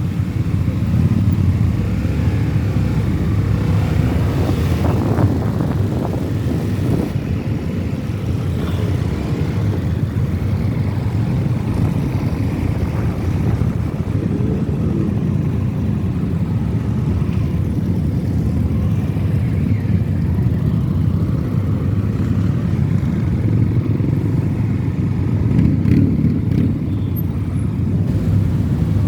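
Many motorcycle engines running together in a large group ride, a steady low rumble.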